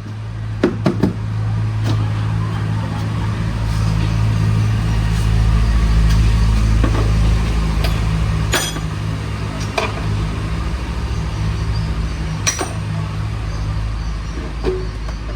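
A machine running with a steady low hum, with a few sharp clicks and knocks over it.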